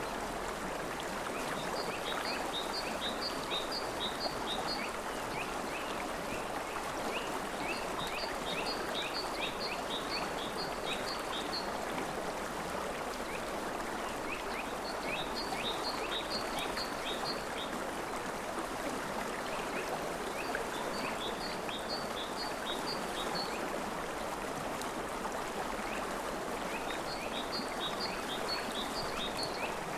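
River water flowing steadily, with high, rapid chirping calls over it: a series of short notes lasting about three seconds, repeated roughly every six seconds.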